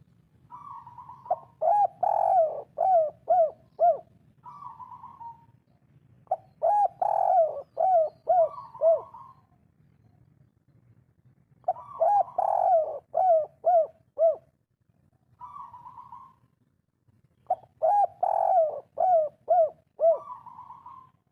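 Spotted dove (derkuku) singing the 'kuk 3' song type: four cooing phrases about six seconds apart, each a loud coo followed by a quick run of four or five short falling coos, with a softer, higher note before and after.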